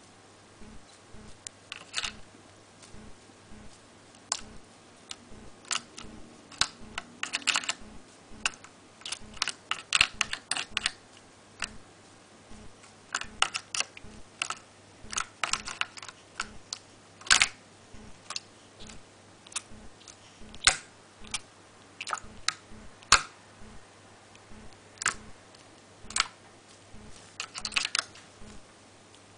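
Irregular sharp clicks and taps from a Java sparrow perched on the rim of a clear plastic bird bath, pecking at the plastic and the water, some coming in quick clusters.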